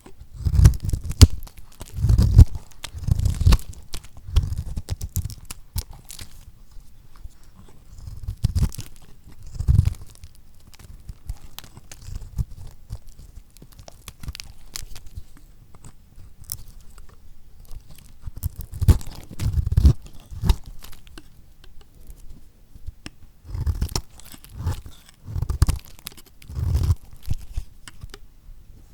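Lacquered soap being cut with a knife: crisp crunching and crackling as the hardened coating breaks. It comes in clusters of strokes, with a quieter stretch of light crackles in the middle.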